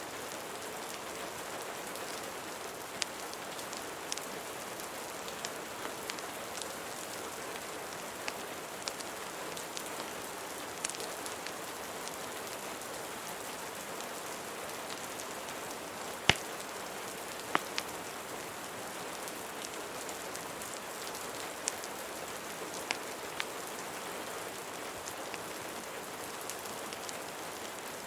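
Steady rain falling, mixed with scattered sharp crackles from a fireplace; the loudest crackle comes a little past halfway.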